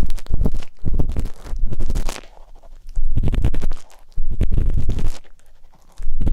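ASMR ear-pick tip scratching and rubbing close against the microphone, in quick runs of strokes with a deep rumble, broken by short pauses.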